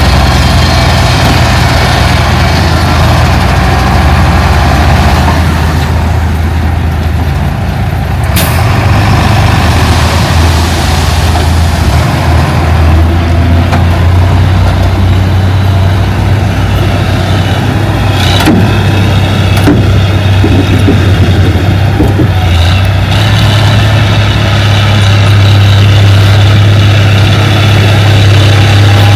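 Heavy diesel engine of earthmoving machinery running steadily with a deep hum, its note shifting slightly now and then. A brief sharp noise cuts in about 8 seconds in and again about 18 seconds in.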